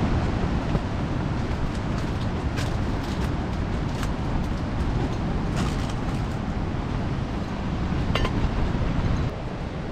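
Strong wind and heavy rain, the wind rumbling on the microphone, with scattered sharp ticks. The noise eases slightly about nine seconds in.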